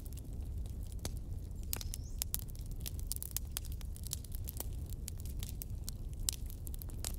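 Wood fire crackling: irregular sharp snaps and pops, a couple louder than the rest, over a steady low rumble.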